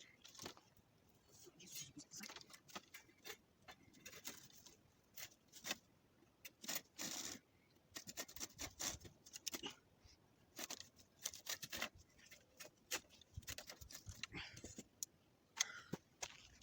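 Large hand saw cutting through wood, heard faintly: a run of uneven rasping strokes and short scrapes.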